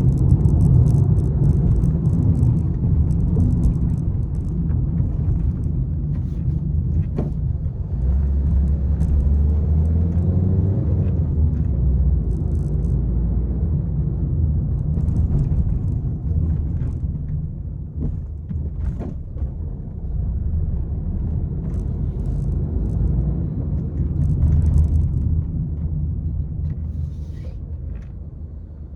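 Peugeot 301 being driven: a steady low rumble of engine and road noise, with scattered short knocks and ticks.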